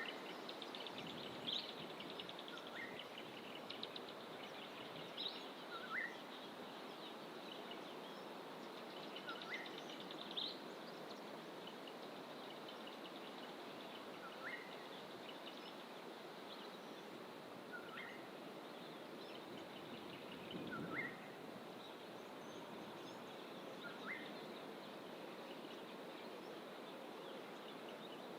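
Birds calling in fynbos bush over a steady background hiss. One bird repeats a short rising call every three seconds or so, and another adds a few higher, buzzy trills.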